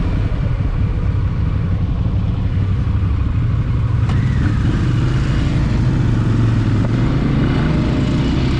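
Motorcycle engine running steadily at low revs, a constant low hum that rises slightly partway through.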